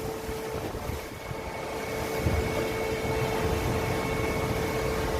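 Machinery running with a steady hum, a thin high whine coming in about two seconds in, over an uneven low rumble.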